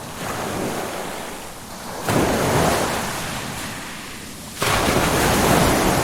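Ocean surf breaking: two waves crash in suddenly, about two seconds in and again about three-quarters of the way through, each fading into a hissing wash.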